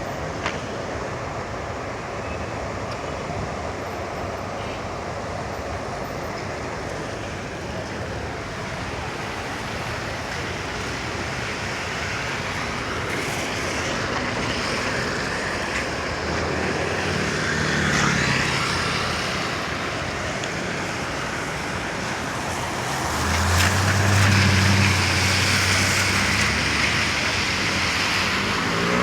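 Traffic on a wet city street: a steady hiss of rain and tyres on wet pavement. Vehicle engines pass about halfway through and again, louder, near the end.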